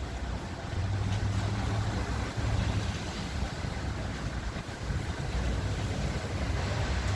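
Metra F40PH diesel locomotive pulling a commuter train out of the station: a low, steady engine rumble that gets louder about a second in, over a haze of wind and rain noise.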